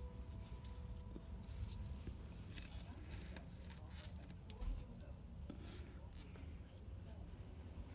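Faint rubbing and scraping with scattered light clicks from plastic tubs and lids being handled, over a low steady hum.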